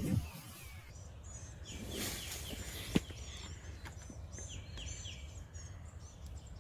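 Small birds chirping in short, quick repeated notes, with one sharp click about three seconds in.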